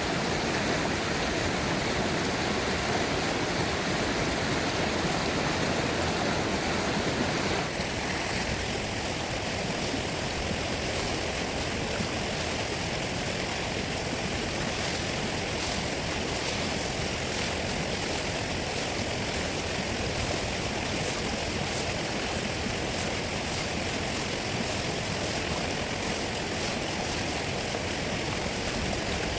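Fast-flowing river rushing steadily, a dense roar of water. About eight seconds in the sound shifts slightly, and faint light ticking rides on top after that.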